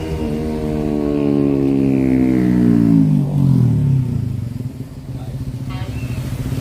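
A motor vehicle engine passing close by, its pitch falling steadily over about four seconds as it goes past, then fading to a low rumble.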